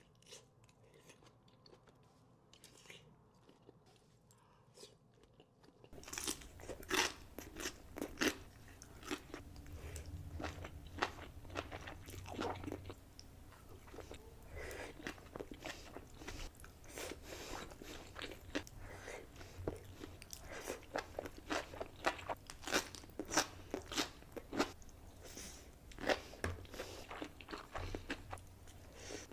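Close-miked mukbang eating sounds: a person biting into and chewing seafood, with many sharp, wet clicks and crunches. It is quieter for the first six seconds, then louder and busier.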